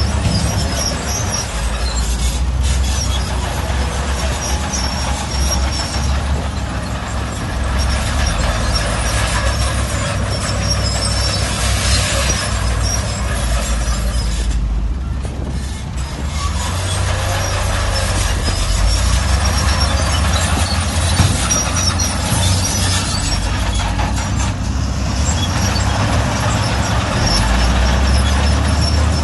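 Heavy diesel earthmoving machinery running steadily, the engine note shifting up and down as the load changes, with high metallic squeaks throughout.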